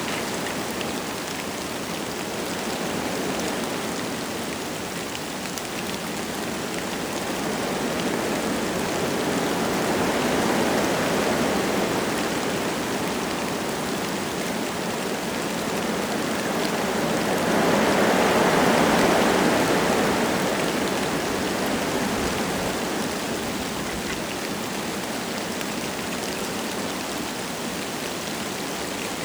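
Wind gusting through forest trees with light rain falling, a steady rushing hiss. The wind swells about a third of the way in and more strongly a little past the middle, then eases.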